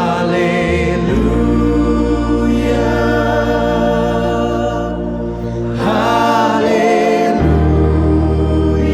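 Choral music: voices singing long held notes with vibrato over sustained low accompaniment, the bass shifting to a new note about a second in and again near the end.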